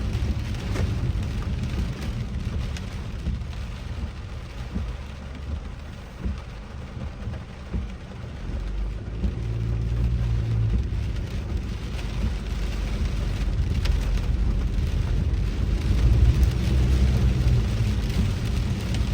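Rain falling on a moving car, heard from inside the cabin over the low rumble of the engine and tyres. The rumble swells about halfway through and again near the end.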